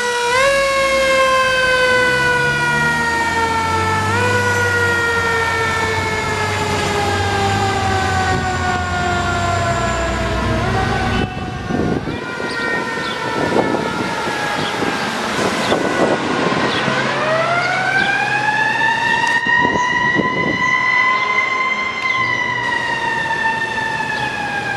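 Fire engine's mechanical siren coasting slowly down in pitch, given two brief pushes back up early on, then wound up again past the middle and left to fall once more. The truck's engine rumbles low underneath in the first half.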